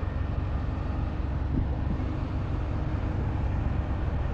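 Steady low outdoor rumble and hiss, with no single event standing out.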